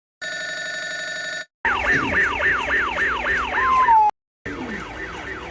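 Electronic siren of a toy fire truck: a steady electronic tone for about a second, then a fast yelping siren of falling sweeps, about three a second. It cuts off sharply and starts again more quietly.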